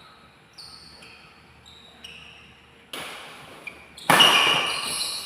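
Badminton rally: rackets striking the shuttlecock in a reverberant hall, a handful of shots a second or so apart, getting harder, with the loudest hit about four seconds in.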